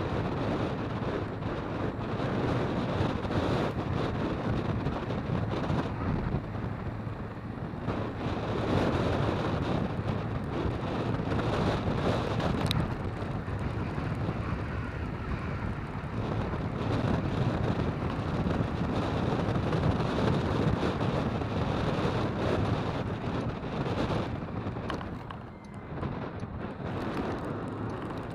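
Wind buffeting the microphone in gusts, a rough rumbling noise that eases briefly near the end.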